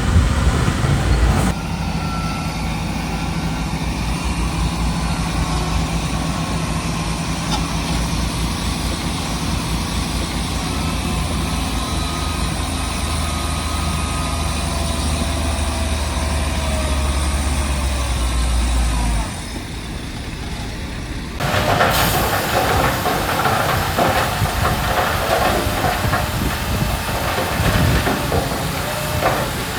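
Heavy diesel engine of earthmoving machinery running with a steady low drone, which fades out about two-thirds of the way through. A louder, rougher rumble and clatter of machinery working then cuts in suddenly.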